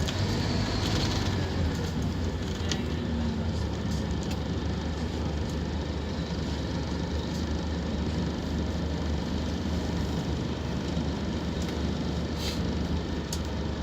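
Scania K230UB Omnilink bus engine running at a steady pitch, with a constant low drone and a few light rattles.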